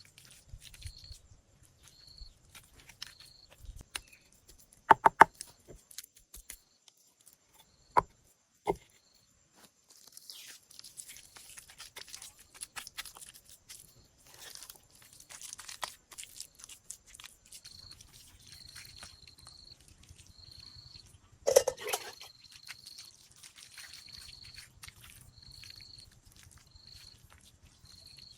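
An insect chirps in a regular rhythm at the start and again for the last ten seconds. A few sharp knocks come in between, and the loudest knock, with a short ring, falls about three quarters of the way through. A stretch of rustling fills the middle.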